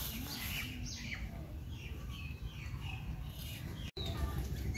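Small birds chirping in short, scattered calls over a steady low background rumble, with a momentary dropout near the end.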